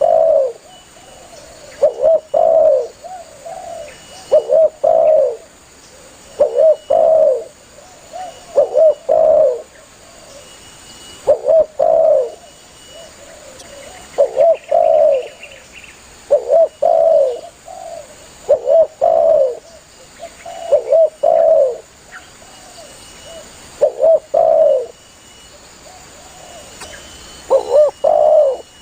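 Spotted dove (tekukur) calling, repeating its short phrase of low coos about every two to three seconds.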